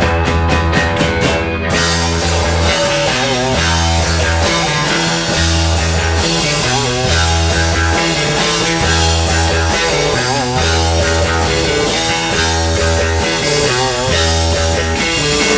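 A rock band playing live with electric guitar, bass and drums. A quickening run of drum hits leads into the full band about two seconds in, with bending lead-guitar notes over a sustained bass line.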